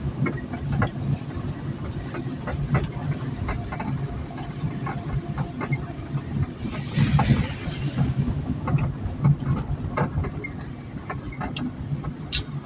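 Vehicle travelling along a rough road: a steady low engine drone with frequent knocks and rattles.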